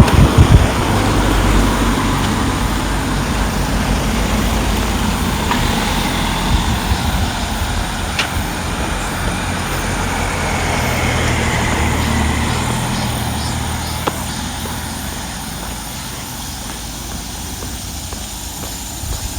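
A motor vehicle's engine running close by with a low, steady hum. It swells a few seconds in and again around the middle, then fades toward the end as it moves off.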